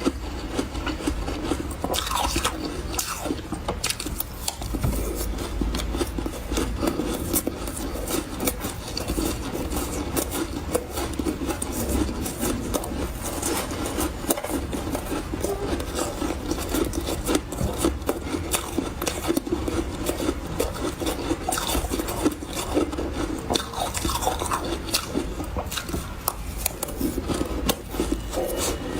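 Refrozen powdery ice being chewed close up in big bites: a continuous dense, fine crunching and crackling.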